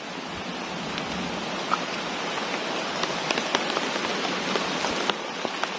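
Steady rain falling on the forest foliage, with scattered sharp taps through it.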